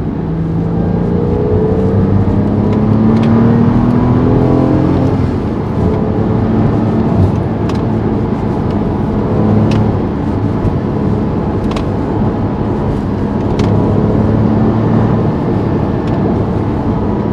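Porsche 911 (997.1) flat-six engine pulling the car on the road, rising in pitch for the first five seconds or so as it accelerates, then running steadily over road noise.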